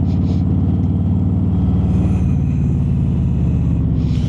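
Harley-Davidson Road Glide's V-twin engine running steadily under way, its exhaust beat a steady low rumble.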